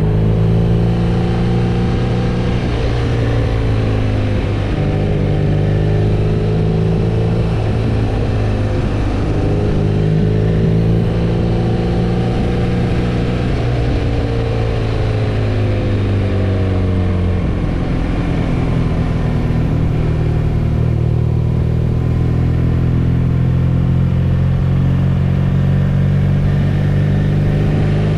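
BMW R nineT's 1170 cc air/oil-cooled boxer twin running under way at a steady cruise. Its pitch rises and falls gently, with a brief change about two-thirds of the way through.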